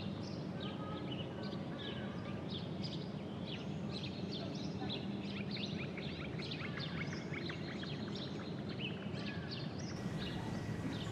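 Birds chirping and trilling, many short calls throughout, over a steady low background noise.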